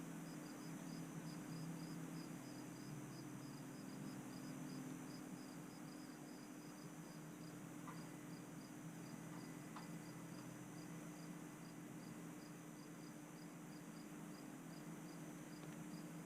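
A cricket chirping steadily, a short high chirp about three times a second, over a faint steady low hum.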